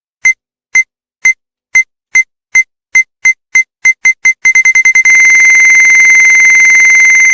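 Electronic beeps from a Newgin CR Jabu Jabu Beat pachinko machine, speeding up from about two a second until they merge into one steady high tone held to the end.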